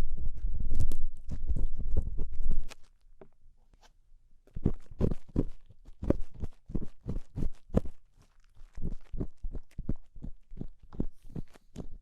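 Ear-cleaning tool scraping and crackling inside a binaural microphone's ear, as if working crispy earwax loose: dense scratching for the first few seconds, a short pause, then separate scrapes a few times a second.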